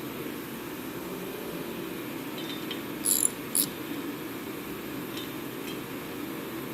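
Sharp metallic clinks of hand tools on the heater's metal parts while the fuel nozzle is being removed: two bright clinks close together about three seconds in, with a few fainter ticks, over a steady low hum.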